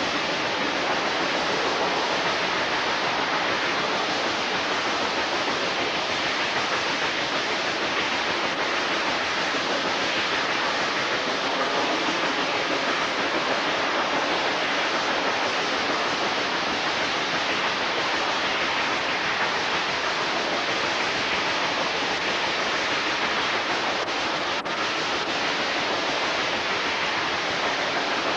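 Steady rushing noise of a moving passenger train heard from an open coach window: wind past the microphone mixed with the train's running noise, even and unbroken throughout.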